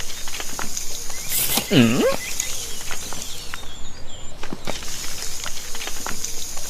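Countryside ambience with scattered light taps, and one short animal call about two seconds in that dips and then rises in pitch.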